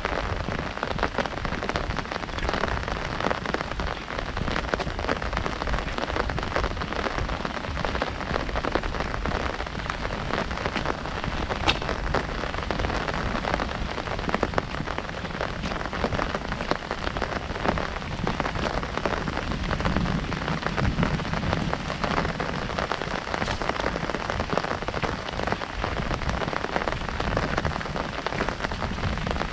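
Heavy rain falling steadily on an umbrella held overhead, a dense, even stream of drop hits on the canopy.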